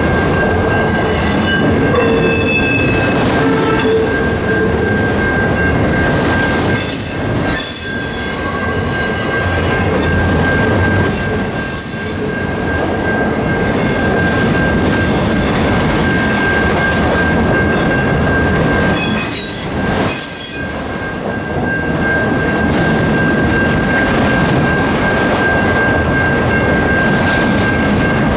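Freight train of autorack cars rolling past at a level crossing: a steady rumble and clatter of wheels on the rails, with several bursts of high-pitched wheel squeal, and a steady high tone throughout.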